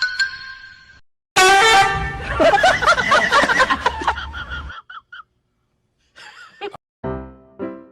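Loud horn-like honking with steady, then wavering tones, followed after a short gap by piano notes starting near the end.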